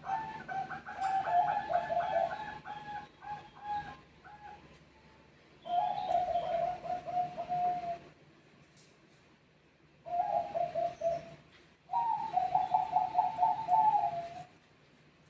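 Zebra doves (Bangkok perkutut) cooing in four bouts of rapid, stuttering notes, answering one another, with short pauses between bouts.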